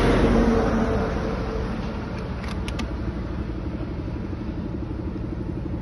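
Road vehicle engine running. It is loudest in the first second or two, then settles into a steady rumble with an even fast pulse, as an idle does. A few faint clicks come a little after two seconds in.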